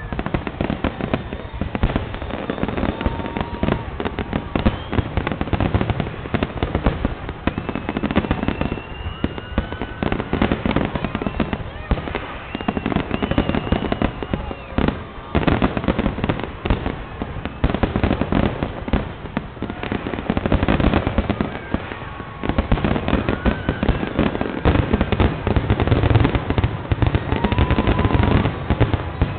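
Fireworks finale: a dense, continuous barrage of aerial shell bursts, bangs following one another with almost no gap, with short tones gliding in pitch now and then.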